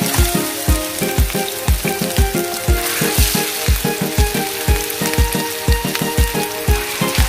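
Minced-meat patties sizzling as they fry in hot oil in a pan, the sizzle briefly louder about three seconds in. Background music with a steady beat plays over it.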